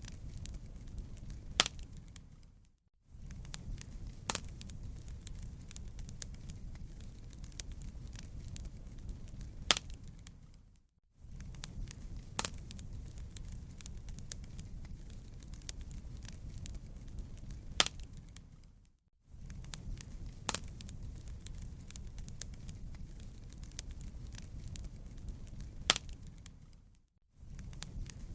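Wood fire crackling: a low steady rumble with scattered sharp pops. The sound fades out to brief silence about every eight seconds and the same stretch of pops repeats, a short recording looped.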